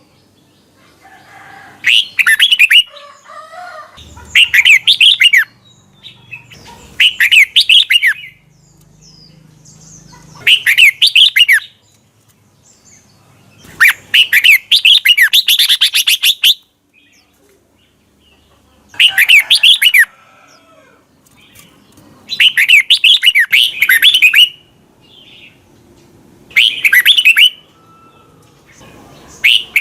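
Red-whiskered bulbul singing loud, short phrases of rapid up-and-down whistles, one every two to three seconds; one phrase near the middle runs longer.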